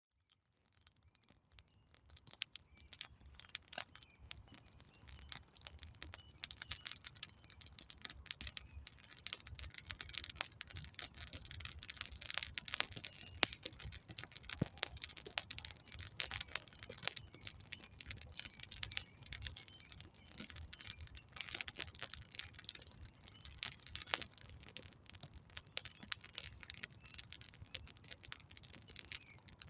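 Wood campfire crackling: a dense, irregular run of sharp pops and snaps over a low rumble of flame, fading in over the first couple of seconds.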